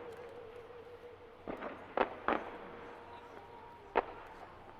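Aerial firework shells bursting in a continuous display: a quick cluster of sharp bangs about a second and a half in, then one more near the end.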